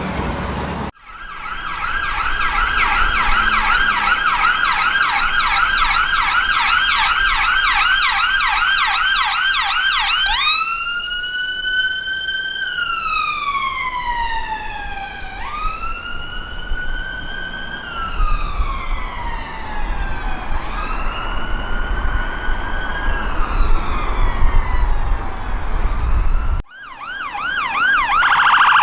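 Emergency vehicle siren on a fast yelp for about ten seconds, then switching to a slow wail that rises and falls about every five seconds, with road noise underneath. Near the end it cuts to another siren on a fast yelp.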